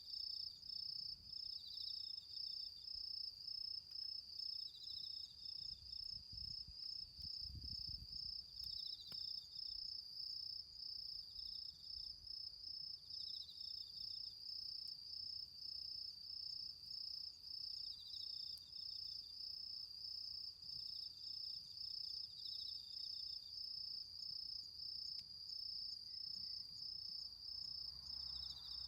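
Autumn insects chirping: one keeps up a steady, rapidly pulsing high chirp, while another adds short trills a little lower in pitch every few seconds.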